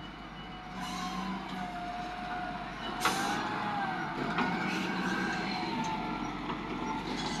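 Heavy truck and earth-moving machine engines running under load, with a whine that wavers slightly in pitch and a sharp knock about three seconds in.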